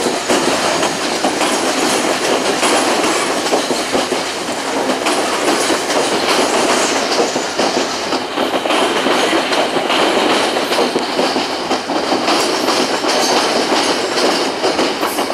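Passenger train carriages rolling past, wheels clattering over the rails in a dense run of clicks, with a faint steady high squeal from the wheels.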